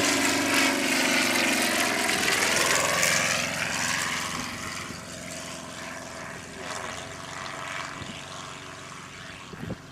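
Propeller engine of a Fokker triplane replica flying past, loud for the first few seconds and then fading as the plane moves away.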